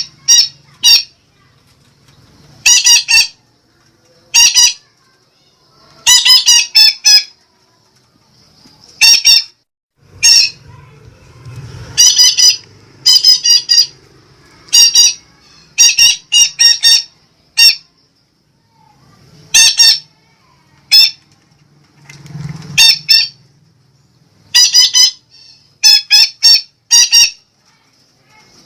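Betet (Psittacula parakeet) giving loud, harsh, shrill squawks, singly or in quick runs of two to four, at irregular intervals: lure calls used to attract wild betet.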